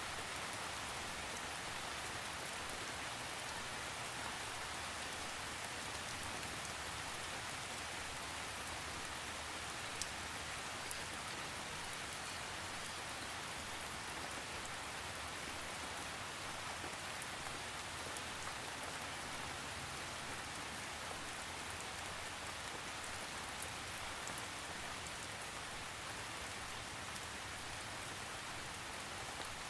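Steady rain falling on a surface: an even hiss with scattered sharper drop ticks, one a little louder about ten seconds in.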